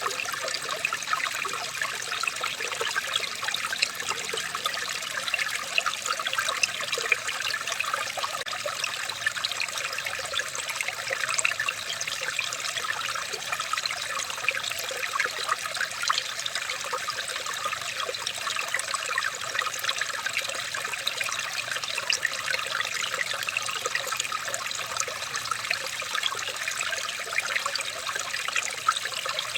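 Water trickling and splashing steadily, like a small stream running over stones, with many tiny splashes and no break.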